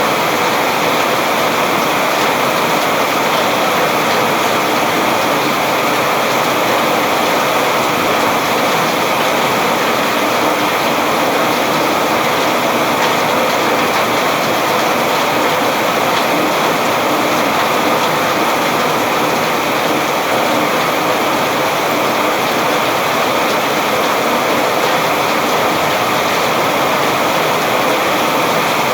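Steady rain falling, an even, unbroken hiss of many drops with no let-up.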